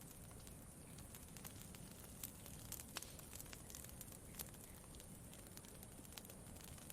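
Campfire crackling faintly, with sharp pops at irregular intervals over a low, steady background.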